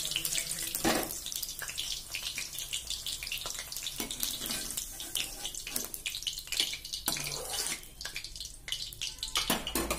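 Cauliflower florets sizzling and crackling as they shallow-fry in hot oil in a steel kadhai. Scrapes and clinks come from a perforated steel skimmer against the pan as the florets are lifted out.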